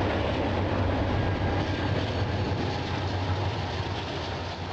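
Freight train rolling by with a steady low rumble and wheel noise.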